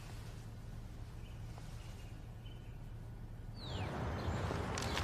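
Faint background ambience with a few faint bird chirps. About three and a half seconds in, a short falling whistle-like sound is heard and a louder steady hiss comes in.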